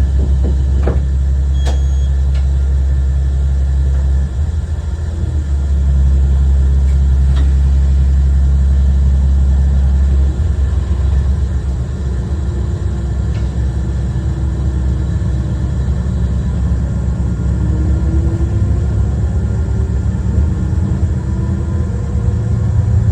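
Diesel railcar Hi-Mo 295-617 running along the line, heard from inside at the front of the car: a steady low engine drone that dips and swells in level a few times, with a few faint clicks and, in the second half, faint rising whines.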